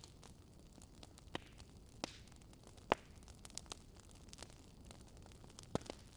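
Campfire crackling: a soft steady hiss with irregular sharp pops of burning wood, the loudest about three seconds in.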